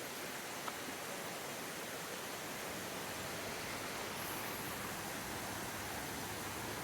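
Steady, even rushing noise with no pitch or rhythm, and one faint click under a second in.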